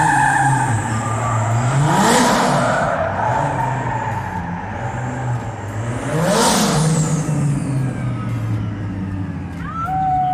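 Drift cars' engines revving as they pass on the track, two pass-bys that swell and fall away in pitch, about two seconds in and again past six seconds, over a steady engine drone.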